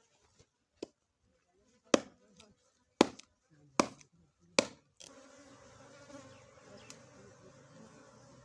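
Four sharp knocks, under a second apart, of a tool striking wood, then a swarm of small honey bees buzzing steadily from about halfway.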